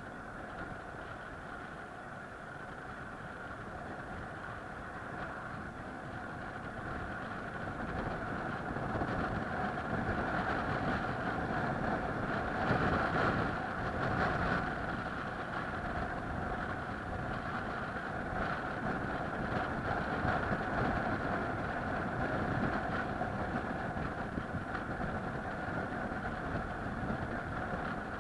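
A vehicle's engine running steadily, with a constant hum that grows louder over the first ten seconds or so and then holds.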